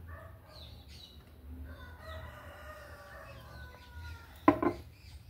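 A long pitched bird call in the background, falling slightly at the end, then one sharp knock about four and a half seconds in.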